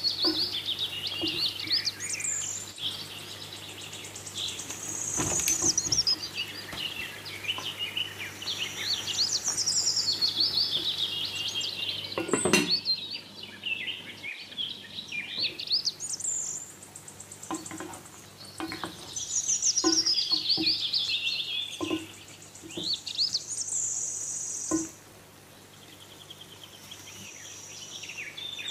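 Small songbirds singing in continuous, fast warbling and chirping phrases with quick rising and falling notes. A few short sharp knocks sound underneath, one louder about twelve seconds in.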